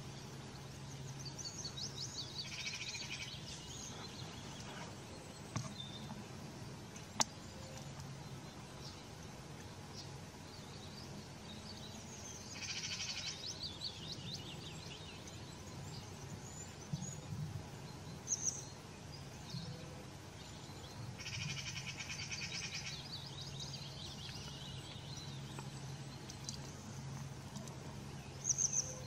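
A songbird singing a short, fast trilled phrase that falls in pitch, three times about ten seconds apart, with a couple of single high chirps between. A steady low hum runs underneath.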